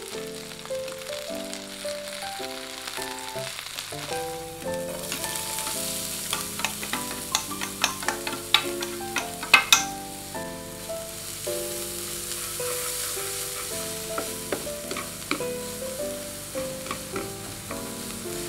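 Chicken pieces and then diced onion frying in oil in a pan, sizzling, the sizzle growing louder about five seconds in. A run of sharp taps and scrapes of chopsticks and a spatula against the pan, loudest near the middle. Light background music plays throughout.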